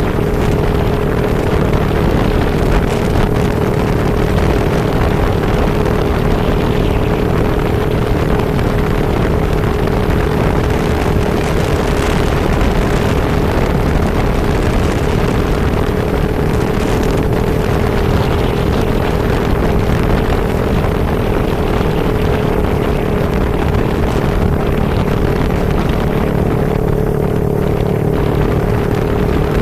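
A vehicle travelling steadily through a rainstorm: a continuous engine and drivetrain hum with a steady whine, under a dense rush of wind and rain noise.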